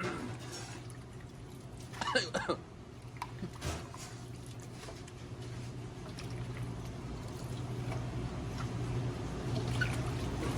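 Electric radish-slicing machine running with a steady motor hum that grows louder about halfway through. There are wet clicks and drips from the sliced radish, with a short clatter about two seconds in.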